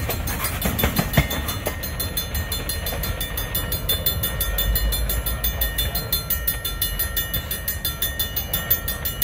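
Freight cars rolling past on the rails with a steady low rumble. The wheels give a few sharp clacks about a second in, and a rapid, even ticking runs throughout.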